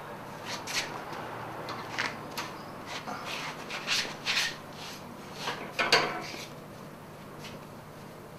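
Fiberglass exhaust wrap being pulled tight and wound around a motorcycle tailpipe: irregular scratchy rubbing strokes, the loudest about six seconds in.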